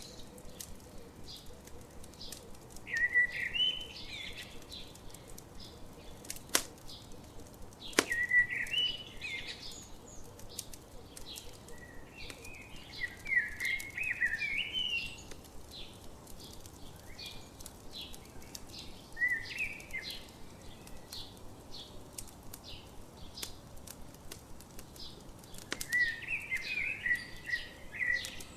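A songbird singing short warbling phrases every few seconds, over the crackle of a campfire with scattered sharp pops, two of them loud.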